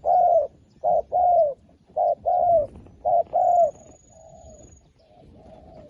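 Dove cooing: four loud calls about a second apart, each a short note followed by a longer falling note, then softer coos near the end.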